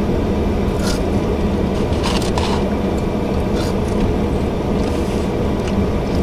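Steady low rumble inside a stopped car's cabin, typical of the engine idling, with a few faint brief rustles about one, two and three and a half seconds in.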